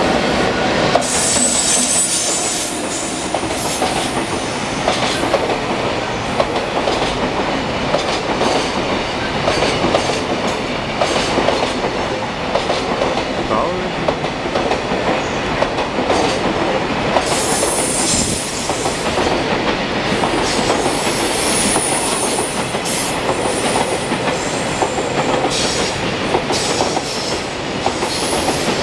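Freight train hauled by an EF210 electric locomotive passing at speed, its wagon wheels clattering steadily over rail joints. High wheel squeal comes and goes, about a second in and again around two-thirds of the way through.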